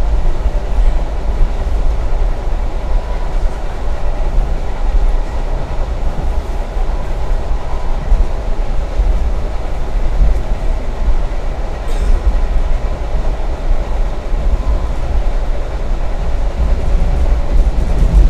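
Passenger train running, heard from inside the carriage: a steady low rumble, with a single faint click about twelve seconds in.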